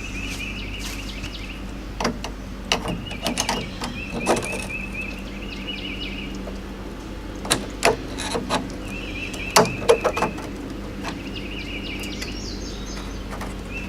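Scattered clicks and knocks of things being handled and moved, over a steady low hum, with a short high chirping trill that comes back every second or two.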